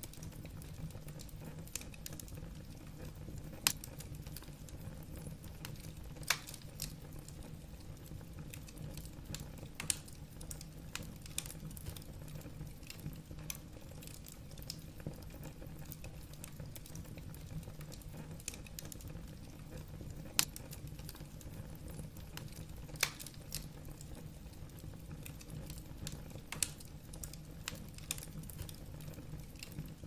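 Wood fire burning in a fireplace: logs crackling and popping in irregular sharp snaps over a soft steady low rush of the flames, with a few louder pops now and then.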